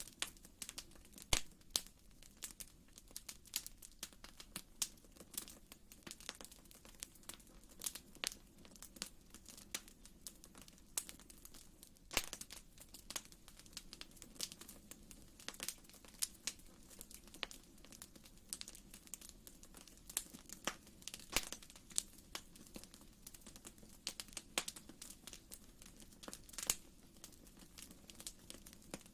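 Wood fire in a fireplace crackling: irregular snaps and pops, several a second and of varying strength, over a faint steady low hush of the flames.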